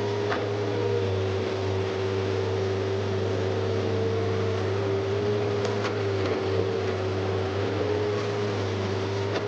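Komatsu PC 130F excavator's diesel engine running steadily under work, with a steady whine over the low engine hum and a couple of faint clicks about six seconds in.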